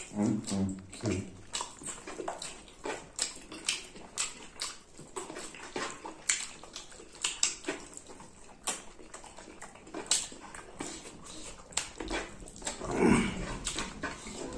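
Two people chewing and lip-smacking as they eat chicken curry and rice by hand: a steady run of short, sharp wet smacks, with a short hummed voice sound at the start and a longer one near the end.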